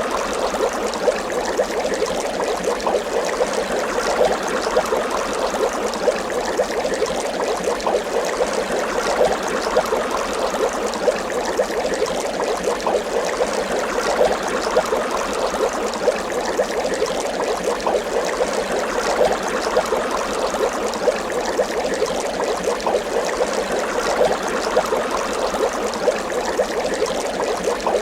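Water bubbling, a steady dense stream of small bubbles popping and gurgling.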